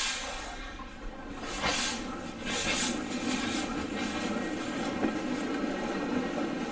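Steam locomotive hissing steam in several short bursts, with a steady low rumble underneath from about halfway.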